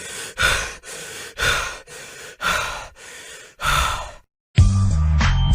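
A person breathing heavily: four in-and-out breaths about a second apart, each ending in a louder exhale. Near the end it stops and music with a heavy bass beat starts.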